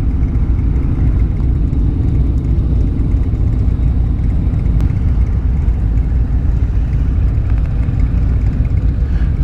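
Harley-Davidson motorcycle's V-twin engine running steadily while riding, a low rumble with no changes in pace.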